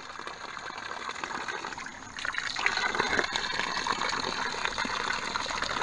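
Water running from the spigot of an old flowing artesian well and splashing, louder from about two seconds in.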